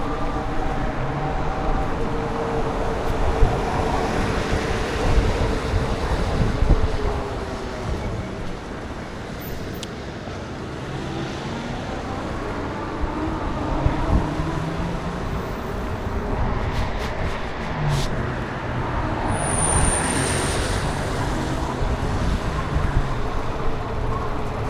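Road traffic running past and wind rushing over the microphone of a moving bicycle, at a steady level. A short high whistle, falling slightly, comes about twenty seconds in.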